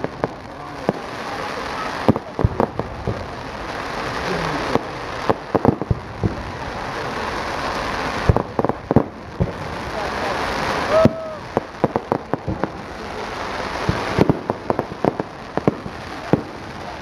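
Fireworks going off: many sharp bangs and crackles, often in quick clusters, over a steady hubbub of crowd chatter.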